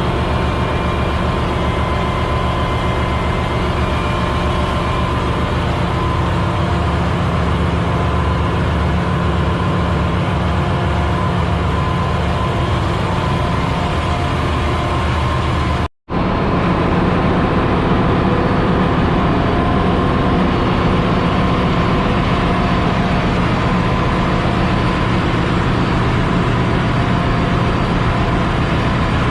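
Ship's engine room machinery running: a loud, steady drone with a low hum and a steady tone near the middle. It cuts out for an instant about halfway and resumes with a slightly different tone.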